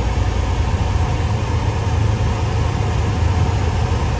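Grain truck's engine running steadily as it drives, heard from inside the cab as a low, even rumble with road noise.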